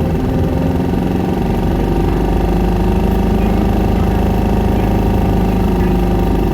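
Isuzu Erga city bus's 5.2-litre four-cylinder diesel engine running while the bus is under way, heard from inside the passenger cabin, its note holding fairly steady.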